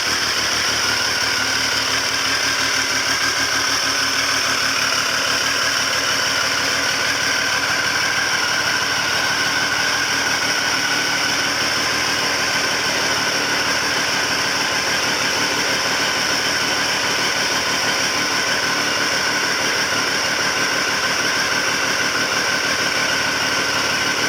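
Triumph Speed Triple 955i's three-cylinder engine idling steadily while warming up.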